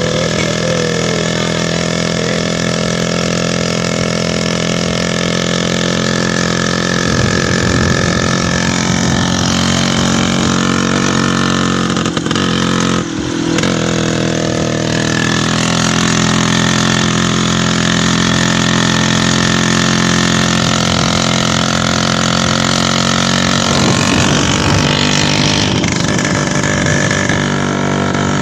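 Sidecar motorcycle engine running steadily under the load of pulling the sidecar, with a brief dip about halfway through. The owner calls the engine wrecked.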